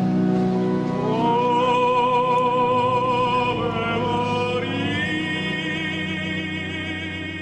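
Classical vocal music: over steady held chords, a singer comes in about a second in and sustains long high notes with wide vibrato, the line stepping to a higher note near the middle.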